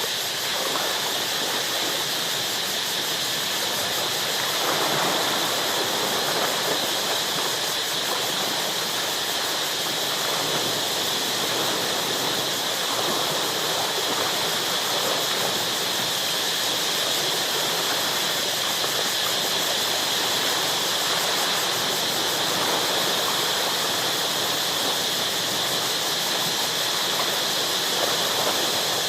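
Ocean waves washing and crashing against shoreline rocks, a continuous rush that swells every few seconds, over a steady high-pitched drone.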